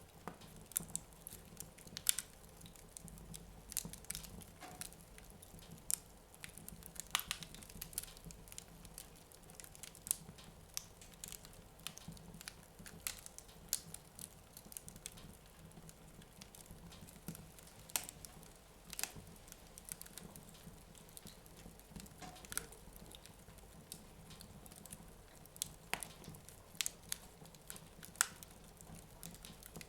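Wood fire burning in a fireplace, crackling faintly with irregular sharp pops and snaps, a few each second.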